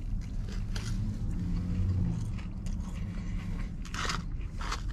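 Close-up chewing of a mouthful of crispy french fries, with a couple of sharper crackly sounds about four seconds in and just before the end, over a low steady rumble.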